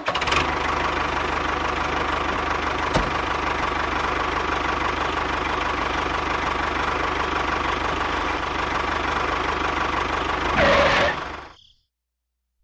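A small motor running steadily with a fast, fine rattle. It gets briefly louder near the end, then cuts off suddenly.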